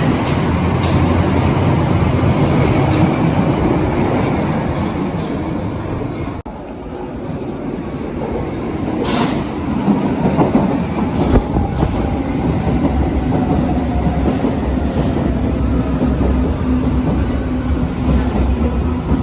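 Berlin U-Bahn large-profile train running on the rails, wheels rumbling, with faint gliding whines above the noise. The sound breaks off abruptly for a moment about six seconds in, then carries on.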